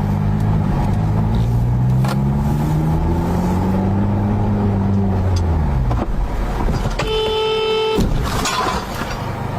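Car engine and road noise, the engine's pitch drifting slowly up and down. About seven seconds in, a car horn sounds steadily for about a second and cuts off abruptly.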